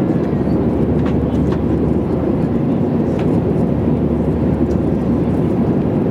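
Airliner cabin noise: the jet engines and rushing air make a steady, even low rumble, with a few faint clicks.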